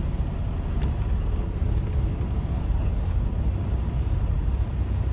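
Semi-truck's diesel engine running with a steady low rumble, and two faint clicks about one and two seconds in.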